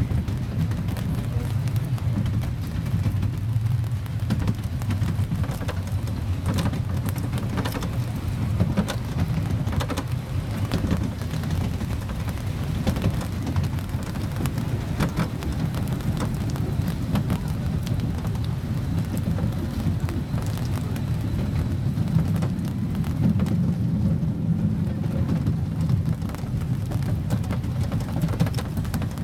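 Steady low rumble of a park train running, heard from aboard, with faint clicks and knocks scattered through it.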